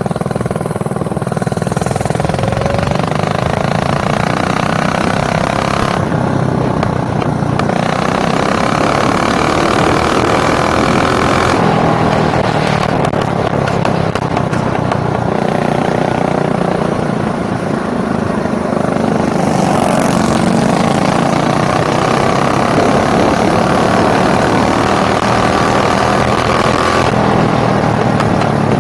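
Small mini bike engine running continuously, its pitch drifting up and down as the throttle changes.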